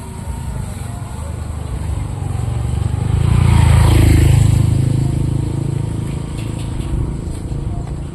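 A motor vehicle passes close by on the road, its engine and tyre noise swelling to a peak about four seconds in and then fading, over a steady background of traffic rumble.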